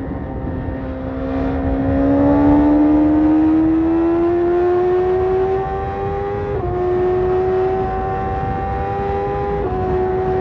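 BMW S1000RR inline-four engine through an Akrapovic carbon exhaust, pulling under load with its pitch rising steadily. It is interrupted by two quick upshifts, about six and a half and nine and a half seconds in.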